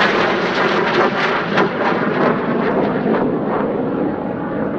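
Red Arrows BAE Hawk T1 jets passing, a loud steady jet roar with a crackle in the first few seconds, easing off slightly near the end.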